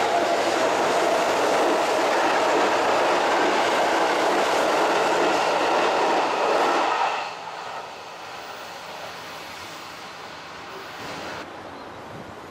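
Sanyo Electric Railway electric commuter train running along the platform track, a loud steady rush of wheels on rail. About seven seconds in it drops to a much quieter, steady sound of a train approaching from far off.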